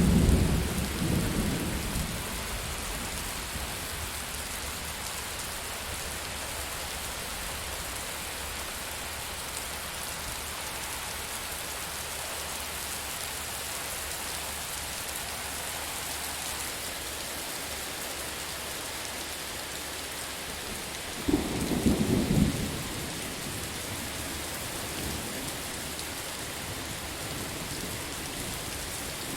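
Steady heavy rain with thunder: a rumble dies away over the first two seconds, and a second sudden thunderclap rolls for about two seconds past the middle.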